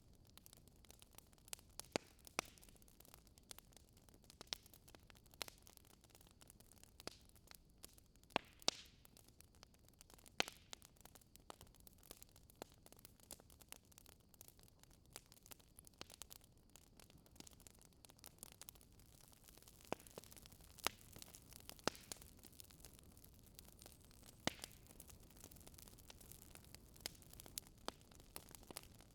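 Faint wood fire crackling in a fireplace: a low hiss with irregular sharp pops and snaps, a few louder than the rest.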